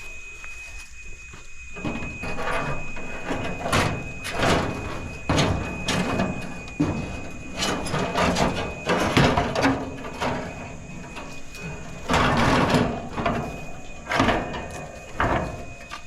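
Scrap metal being shifted and shoved into a truck bed: a run of irregular clanks, knocks and scrapes starting about two seconds in, loudest about twelve seconds in.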